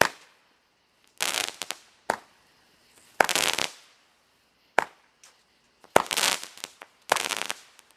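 Multi-shot firework cake firing shot after shot: about seven sharp pops roughly a second apart, most trailed by half a second of crackling hiss.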